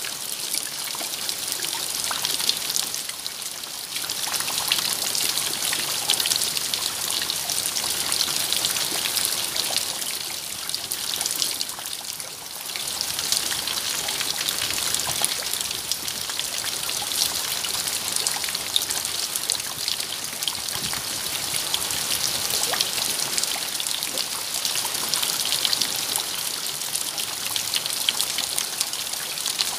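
Steady rain, a dense patter of drops with a trickle of running water, brightest in its hiss and fine ticks, easing for a moment about twelve seconds in.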